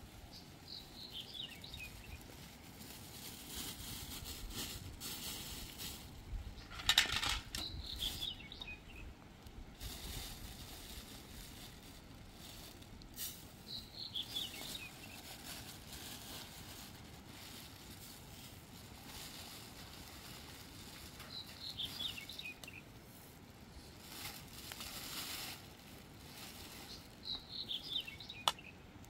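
A small bird sings the same short phrase of high, falling chirps five times, about every six to seven seconds, over a soft hiss that swells and fades.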